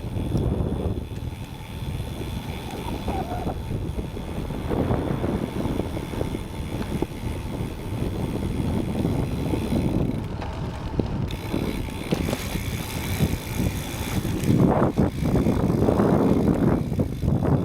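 Wind rumbling over a bicycle-mounted action camera's microphone during riding, with the low rolling noise of the bicycle's tyres on the trail; the gusty rumble grows louder near the end.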